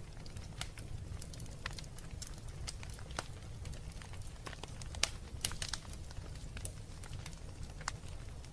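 Wood burning in a fireplace, crackling: irregular sharp pops and snaps over a steady low rumble, with a cluster of sharper pops about five seconds in.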